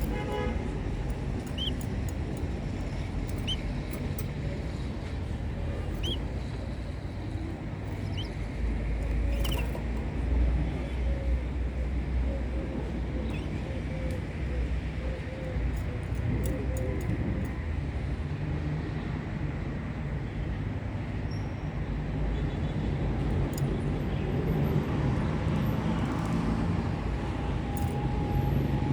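Steady low background rumble, with faint short chirps repeating about once a second during the first ten seconds and a few scattered light clicks.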